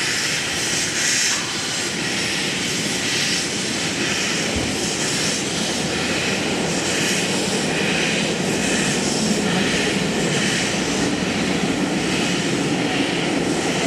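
C57 1 steam locomotive letting off steam: a loud, steady rushing hiss that swells in the high range every second or two.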